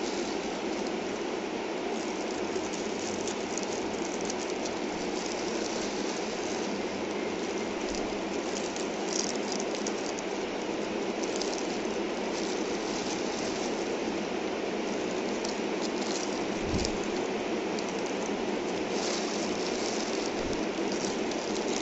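Steady rain falling, with intermittent crinkling of a plastic bag as shredded cheese is shaken out of it onto the pizza.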